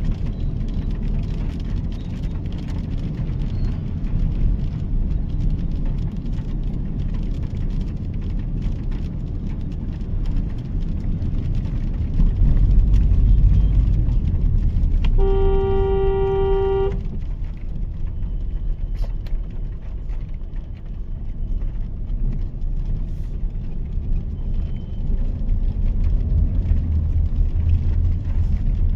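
Steady low road and engine rumble of a Mahindra XUV 3XO's 1.2-litre turbo-petrol three-cylinder driving in city traffic, heard from inside the car. A car horn sounds once, for under two seconds, a little past halfway.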